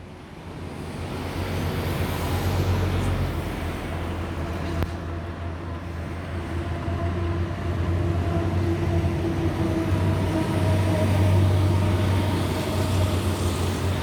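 Boeing 767-300ERF jet engines at low altitude on final approach, a steady rumble with a hum of engine tones that swells over the first couple of seconds and grows louder again later as the aircraft passes.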